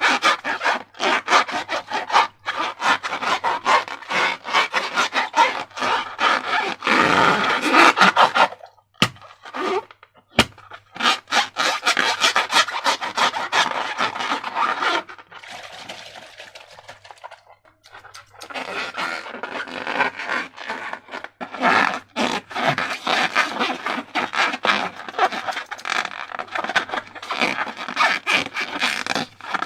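Slime being squeezed and worked by hand: a dense run of sticky crackles and small pops, with a short pause about a third of the way in broken by two sharp clicks, and a quieter stretch past the middle.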